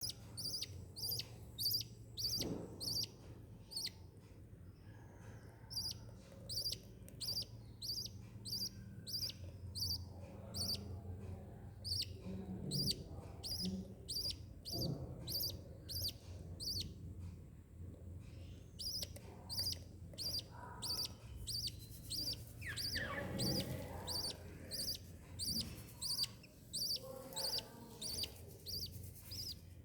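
Lovebirds chirping: short high chirps repeating about two a second, broken by a couple of brief pauses, over a steady low hum. A few fainter lower-pitched sounds come in between the chirps.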